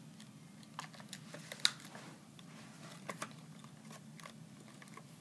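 Scattered small clicks and taps of plastic toy packaging being handled and pried at as a die-cast toy car is worked out of it, with one sharper click about a second and a half in.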